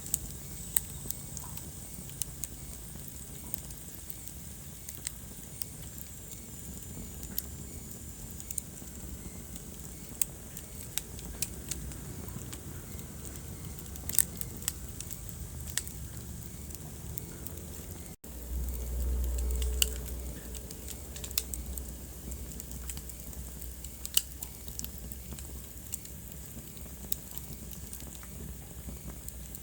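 Wood fire burning in a fireplace, crackling with irregular sharp pops and snaps over a soft steady hiss. About eighteen seconds in, the sound breaks off for an instant and then a low rumble lasts a couple of seconds.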